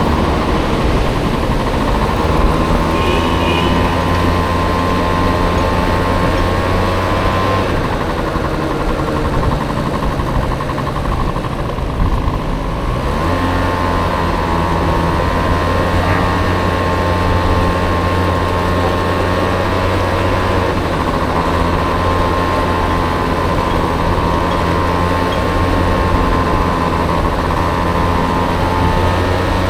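Small Honda Dio scooter engine running under way, with low wind rumble on the microphone. The engine note eases off about eight seconds in and picks up again with a rising pitch about five seconds later, then holds steady.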